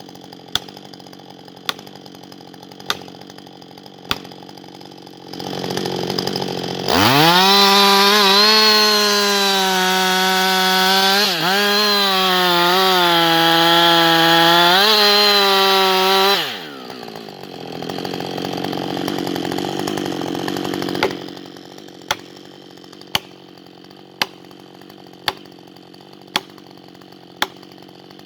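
Husqvarna 560XP two-stroke chainsaw: a lower running level about five seconds in, then revved to high speed for about ten seconds, its pitch dipping briefly a few times, before dropping back to a lower level and fading out about twenty-one seconds in. In the quieter stretches, sharp ticks come about once a second.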